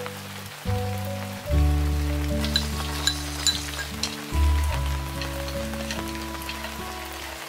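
Food sizzling in hot oil in a wok while being stirred with chopsticks, with a few sharp crackles of spattering oil around three seconds in. Background music of slow, sustained low notes is louder than the frying.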